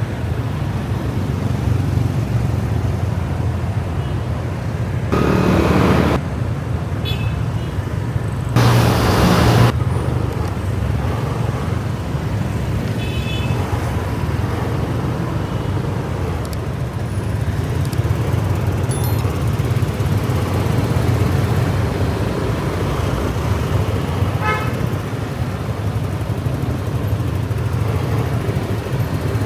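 Motorcycle inline-four engine running steadily while riding in city traffic, with short horn beeps from other vehicles a few times. Two louder rushing bursts come about five and nine seconds in.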